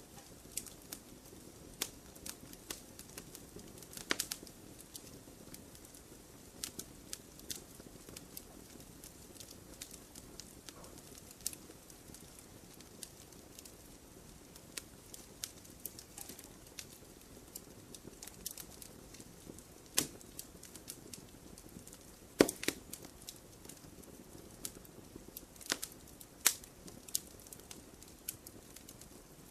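Wood campfire burning, with a soft low hiss and irregular sharp crackles and pops, a few of them louder.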